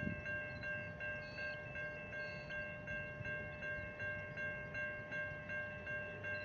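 Railway level crossing warning bell ringing in an even, rapid pulse of about three strokes a second, over a low rumble.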